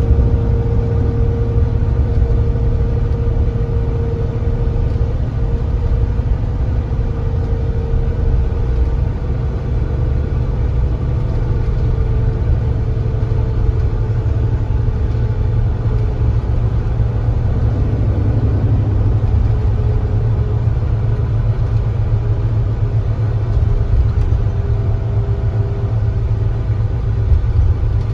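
Kia Granbird Sunshine coach's diesel engine running steadily under way, a low rumble with a faint whine above it that slowly drops a little in pitch.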